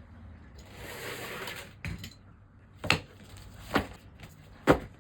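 Things being handled and set down on a hard surface: a brief rustle, then four sharp knocks about a second apart, the last the loudest.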